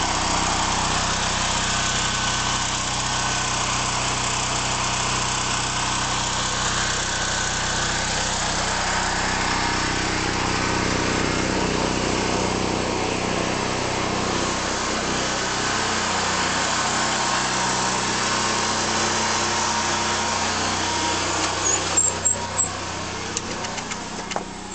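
Portable backup generator's engine running steadily. Near the end come a few sharp knocks, after which the engine sounds fainter.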